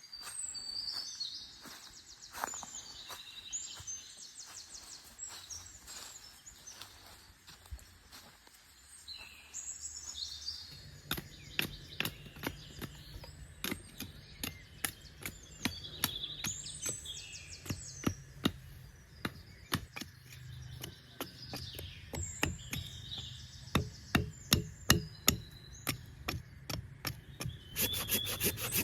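Birds singing, then from about a third of the way in a long run of sharp, irregular knocks on wood, sometimes several a second, as wood is worked with hand tools.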